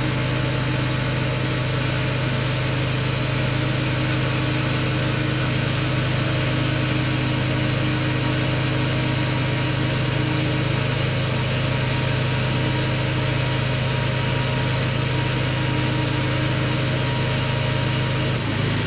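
Pressure washer running steadily: a constant motor hum under a hiss of spraying water, starting and stopping abruptly.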